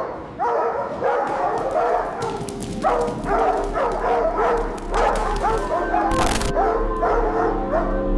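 Several dogs barking and yelping again and again, over a low steady drone. A brief harsh hiss cuts in about six seconds in.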